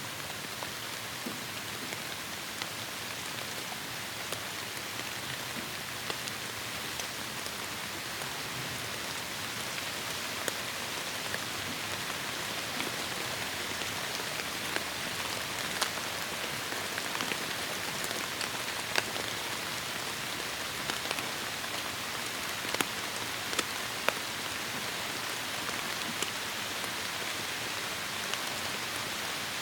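Heavy rain falling steadily on forest foliage, an even hiss with sharp individual drop hits scattered through it, growing a little louder in the second half.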